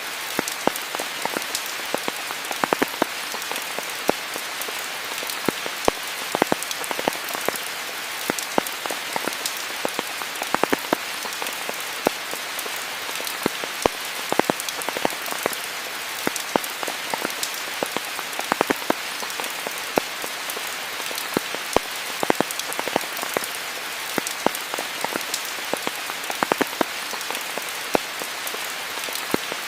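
Steady rain falling, an even hiss dotted with many sharp individual drop hits on nearby surfaces.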